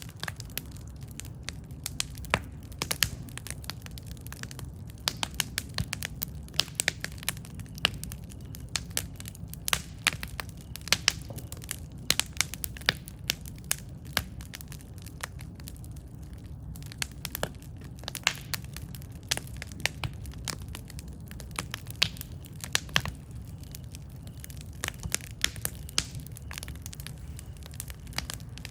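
Campfire burning with irregular sharp crackles and pops over a steady low rumble of the flames.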